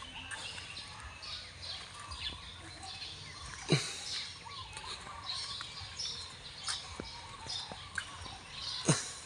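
Birds chirping and calling, many short high chirps overlapping. Two sharp knocks stand out, one about four seconds in and one near the end.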